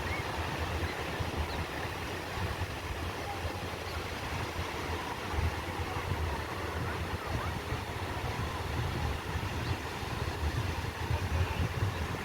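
Ocean surf washing steadily, with wind buffeting the microphone in an uneven low rumble.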